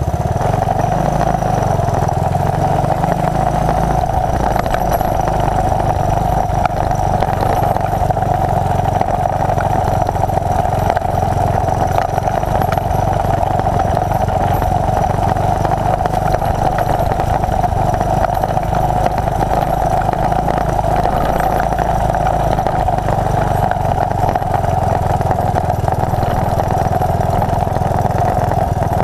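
1981 Honda XL185's single-cylinder four-stroke engine running steadily, at an even pitch with no revving.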